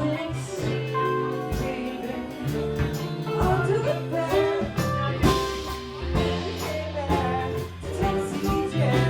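A live rock band playing, with electric guitar, bass and drum kit, and singing.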